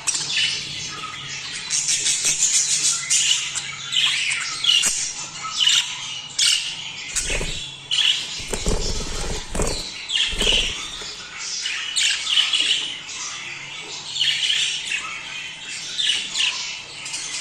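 A flock of budgerigars chattering and squawking without pause, many short warbling calls overlapping, with a few low thumps about halfway through.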